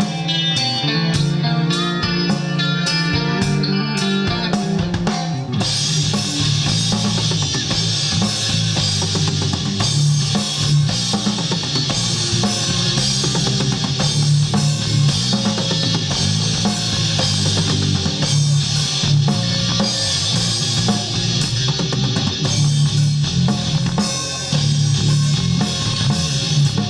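Live rock band playing an instrumental passage with guitar, bass and drum kit. The cymbals grow much louder about five seconds in.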